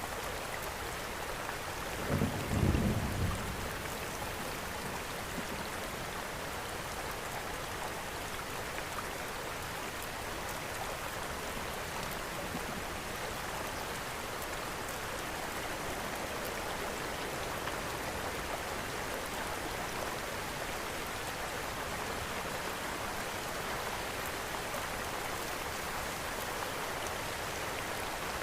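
Steady rain blended with a crackling wood fire, with a brief low rumble about two seconds in.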